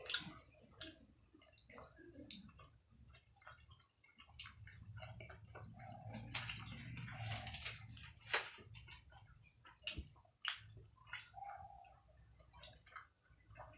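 Wet chewing and mouth sounds of people eating juicy momos, with many short clicks and smacks and a louder, wetter stretch about halfway through.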